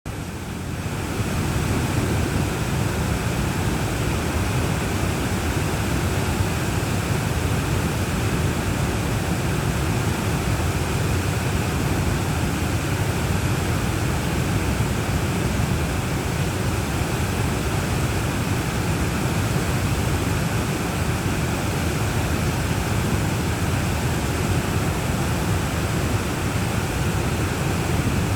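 Two-tier waterfall, a steady rush of falling water that is heaviest in the low end. It fades in over the first second.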